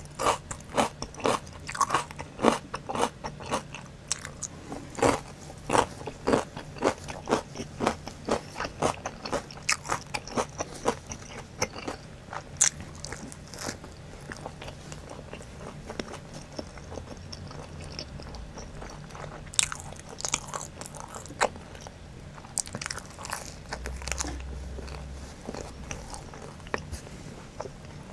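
Close-miked chewing of crunchy pickled radish cubes, with about two sharp crunches a second. Past the middle it turns to softer, sparser chewing and mouth clicks.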